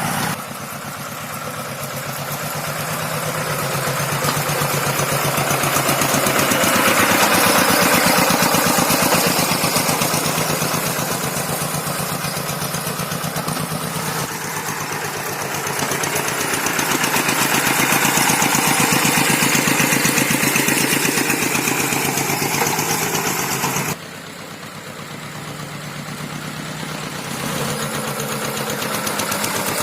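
Tractor engine running continuously under working load while levelling a rice paddy, its sound swelling and easing off over several seconds at a time. The level drops suddenly twice, just after the start and about 24 seconds in.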